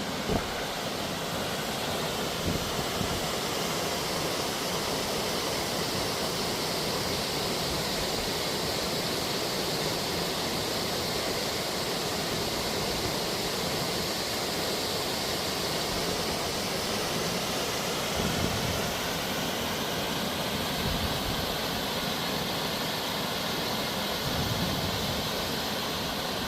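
Steady rush of fast-flowing water on Tumalo Creek, a constant even noise with no change in pitch, with a few brief low bumps on the microphone.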